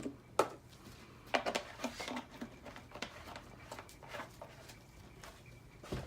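Light clicks and knocks of small containers and tools being handled on a worktop during soapmaking: a sharp one about half a second in, a quick cluster a second later, then scattered taps.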